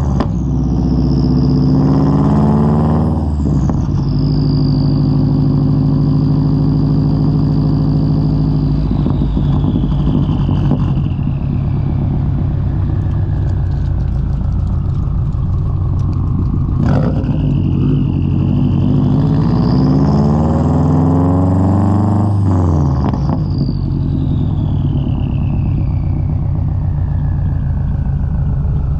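2003 Subaru WRX's turbocharged flat-four engine through a Tomei straight-pipe exhaust while driving. The revs climb near the start and again about twenty seconds in, and each time fall away slowly as it eases off. There is a single sharp crack about seventeen seconds in.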